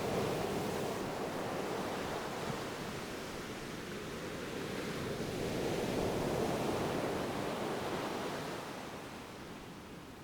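Ocean waves breaking and washing on shore, a steady rushing that swells at the start and again in the middle, then eases off near the end.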